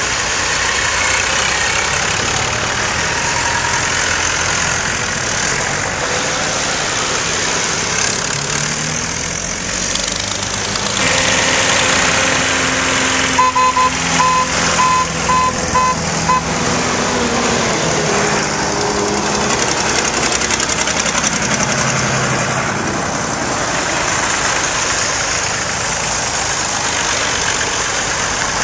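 Tractor engines running as a procession of tractors passes. About halfway through, a vehicle horn beeps about six times in quick succession.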